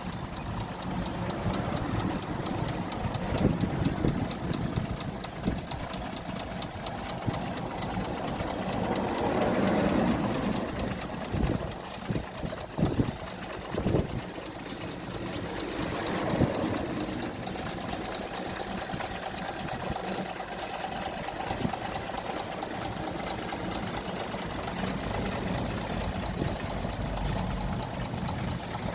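1937 Wolseley 14/56's six-cylinder engine idling steadily, with two brief swells as it is revved up. Between the swells there are a few sharp knocks.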